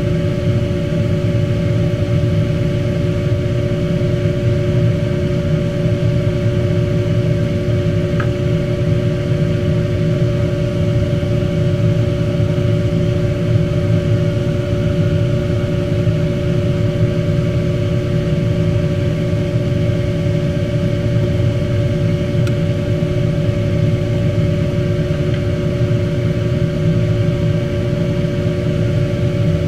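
A steady, unchanging machine drone: a low hum with two steady pitched tones above it.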